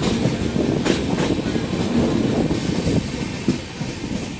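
Passenger train coaches rolling along the track, heard from an open door: steady rumble and wind with wheels clicking over the rails. The noise eases a little about three seconds in.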